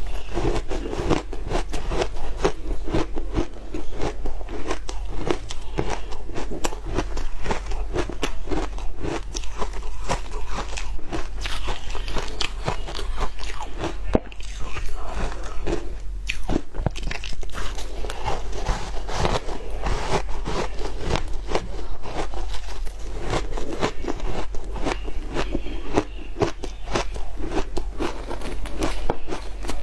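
Shaved ice being bitten and chewed: dense, continuous crunching made of many quick, crisp cracks, with a steady low hum beneath.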